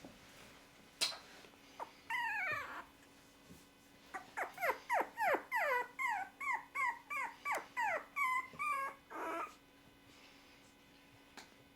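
Chihuahua puppy whimpering: one drawn-out cry about two seconds in, then a run of short, falling, high-pitched cries, about three a second, lasting some five seconds.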